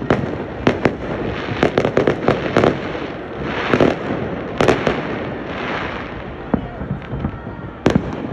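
Fireworks display: aerial shells bursting in rapid, irregular bangs, some in quick clusters, with stretches of crackling around four and six seconds in and one sharp, loud bang near the end.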